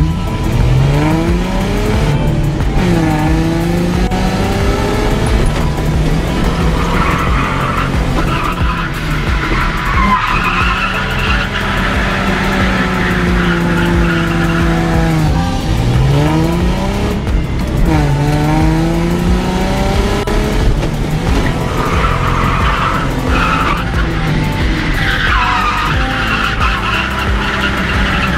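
Ford Mustang V6 drift car heard from inside the cabin: the engine revs up and down in repeated sweeps between steady high-rpm stretches, with the tyres squealing as it slides.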